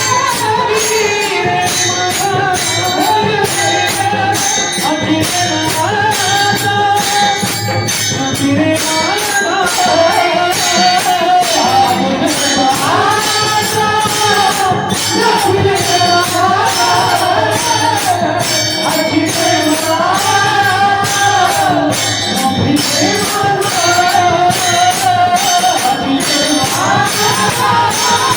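Marathi Varkari devotional music: a gliding sung or played melody over a steady beat of jingling metal percussion.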